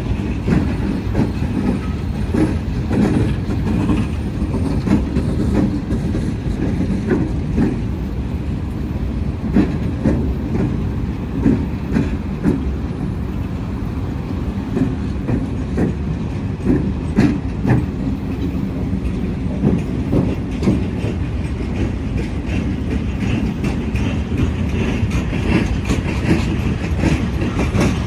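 Freight train rolling past, with a steady rumble and the wheels clicking and knocking over rail joints.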